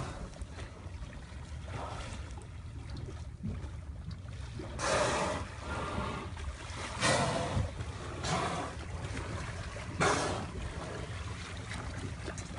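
Water splashing and sloshing against a boat over a steady low rumble, with four louder splashes at roughly two-second intervals in the second half.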